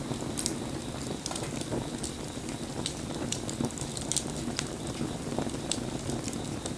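Wood fire burning, with a steady low rush of flame and scattered sharp crackles and pops of burning wood.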